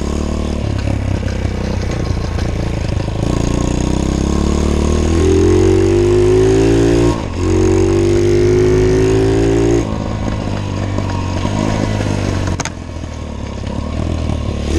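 Pit bike engine running under load on a ride, its pitch climbing as it revs up, dropping off briefly about seven seconds in and again about ten seconds in, then climbing again near the end. It levels off rather than revving higher, an engine the owner says won't really rev out.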